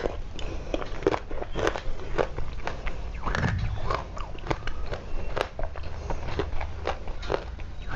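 Dry clay being bitten and chewed close to the microphone: a continual run of irregular crisp crunches and snaps.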